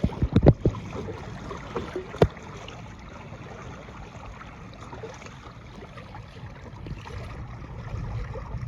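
Water rushing and lapping along the hull of a Hobie sailing kayak under way, with a few sharp knocks in the first couple of seconds, then a steady low rush.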